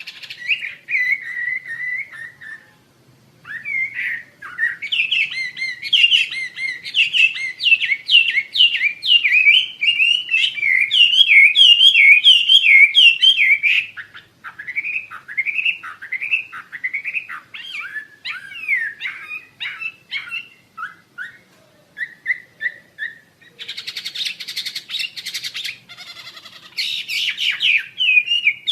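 A Wambi Asia bird singing a fast run of chirped, sweeping whistled notes, with a harsh, buzzy passage a little before the end.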